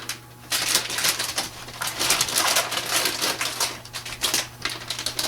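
Wrapping paper crinkling and tearing in quick irregular crackles as a dog rips at a wrapped rawhide bone.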